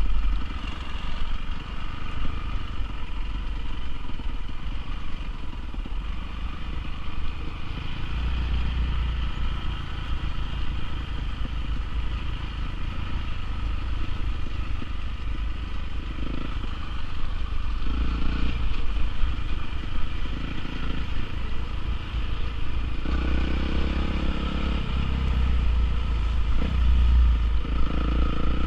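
Honda CRF450R dirt bike's single-cylinder four-stroke engine running at a fairly steady pitch, with a heavier low rumble from about two-thirds of the way in.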